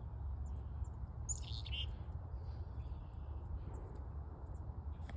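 A small songbird calls once about a second and a half in: a sharp high note followed by a few short buzzy notes. Faint high chips can be heard around it, all over a steady low rumble.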